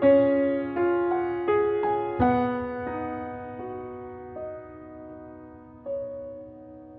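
Background piano music: a slow phrase of struck, ringing notes that come more sparsely after about two seconds and die away toward the end.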